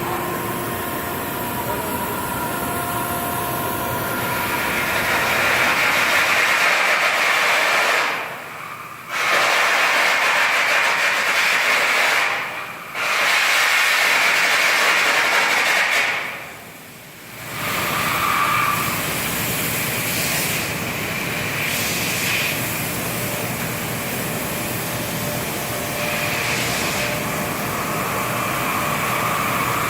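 Electric arc welding: a steady crackling hiss from the arc as a weld bead is laid, breaking off briefly three times when the arc is stopped and struck again.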